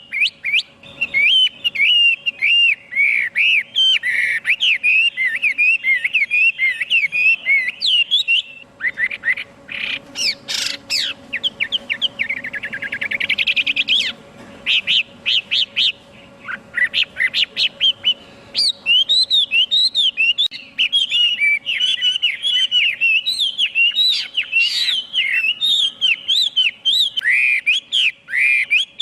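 Chinese hwamei singing a loud, fast run of varied whistled phrases. About a third of the way in the song changes to sharper notes and a rapid trill, pauses briefly, then resumes as a dense string of phrases.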